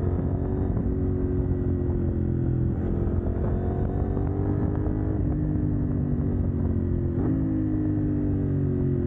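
CFMoto 800NK's parallel-twin engine with a de-catted exhaust, running under the rider; the engine note slowly drops, with a short blip about three times along the way.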